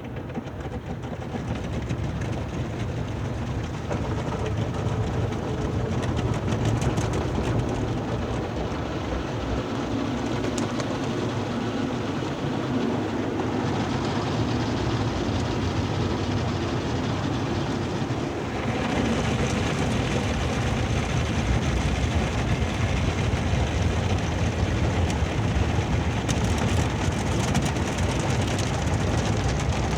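Automatic car wash working over the car, heard from inside: a steady rumble and rush of machinery and water spray that builds over the first few seconds. About 18 seconds in it changes to a brighter hiss, with spray drumming on the body near the end.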